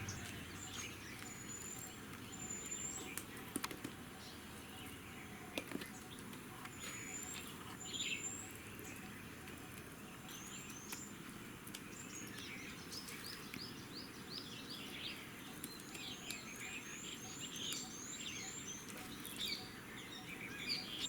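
Small birds chirping and calling, scattered short chirps and thin high whistles, with a quick run of repeated high notes in the second half.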